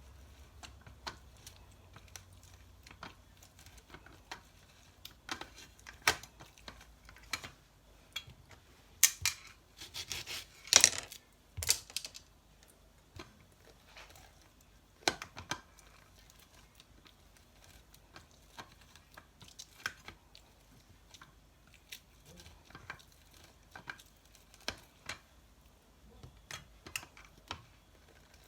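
Lemons being juiced by hand: scattered small clicks and knocks of fruit and juicer against a bowl, with a louder clatter about ten seconds in.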